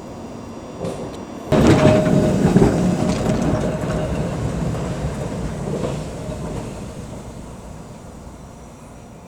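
Heritage electric tram rumbling along the track. The rumble comes in suddenly about a second and a half in with a brief steady whine, then fades away slowly over several seconds.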